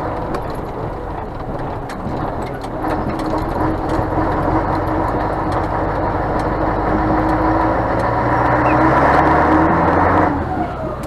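Scania truck's diesel engine running under way, a steady drone that grows louder from about six seconds in and then drops off sharply near the end.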